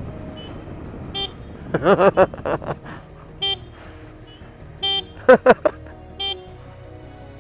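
Short horn-like toots repeating about every second and a half, with louder wavering blasts about two seconds in and again past five seconds.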